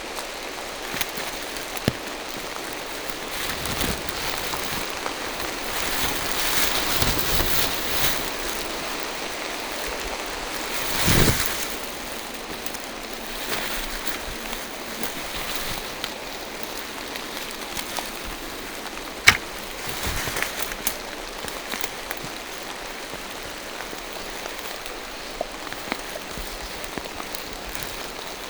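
Steady rain falling through forest trees, an even hiss of drops on leaves, with scattered louder drips and a sharp tick about nineteen seconds in. A brief louder swell of noise comes about eleven seconds in.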